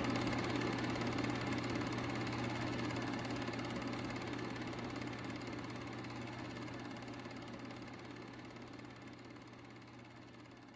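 A steady low drone, held without change and fading out slowly.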